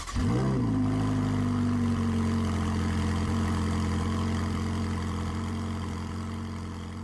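Car engine starting: it catches with a quick rise in pitch, then settles into a steady idle that slowly fades out near the end.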